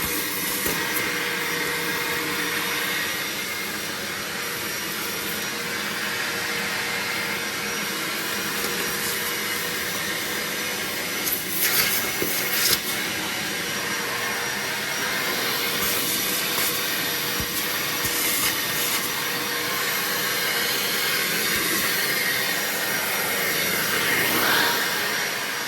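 BAUER 3-gallon, 3 peak HP wet/dry shop vac running steadily with a constant motor whine. There are a few sharp, louder rattles about halfway through.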